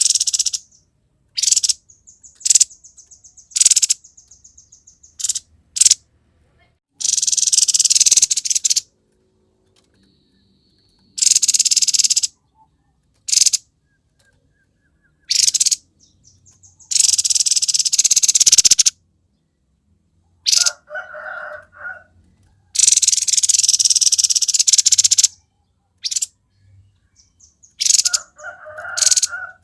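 Grey-headed babbler calling loudly in bursts of harsh, rasping notes a second or two long, between them a fast ticking trill and lower chattering phrases: the rough 'konslet' style of song.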